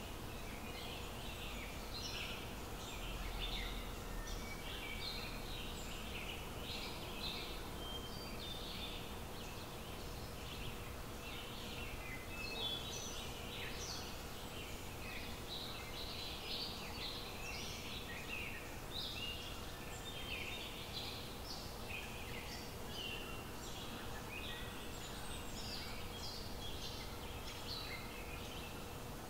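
Onions and spice paste sizzling in hot oil in a wok, with many small irregular crackles and pops, over a faint steady hum.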